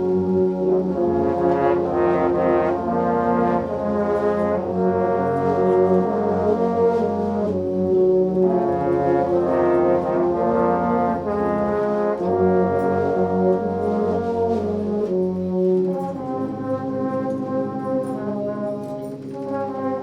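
A 40-piece brass band playing an instrumental passage of sustained chords that change every second or two, a little softer in the last few seconds.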